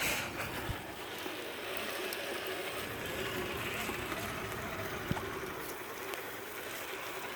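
Faint steady whine from the electric motor of a Traxxas TRX-4 RC crawler driving through water, over a steady hiss of rain and sloshing water, with a couple of small knocks.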